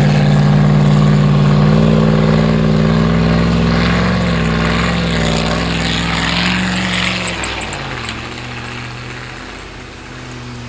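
Straight-piped Chevrolet Silverado engine held at high revs. About seven seconds in the revs drop and it settles to a lower, quieter drone.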